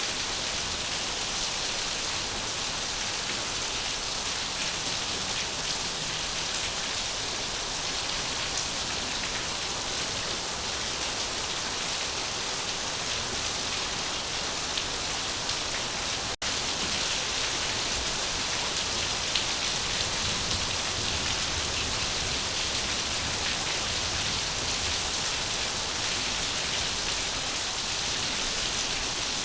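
Steady, even rain on a surface, with one momentary dropout about halfway through.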